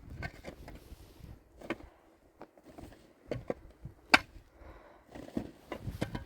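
Irregular knocks and taps, with one sharp knock about four seconds in.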